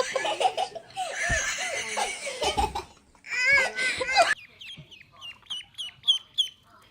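Hearty laughter for about four seconds, then a quick run of short, high cheeps, each falling in pitch, about four or five a second, from a small bird.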